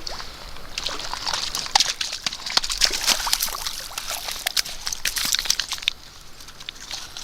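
A hooked steelhead thrashing and splashing in shallow creek water as it is landed. The irregular splashing is busiest in the middle and eases off about six seconds in.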